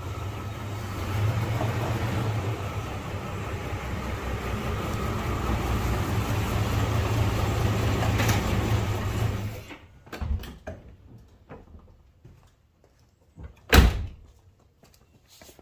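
Vehicle engine idling steadily, then switched off abruptly about ten seconds in. A few light clicks follow, and a door shuts with a single sharp bang near the end.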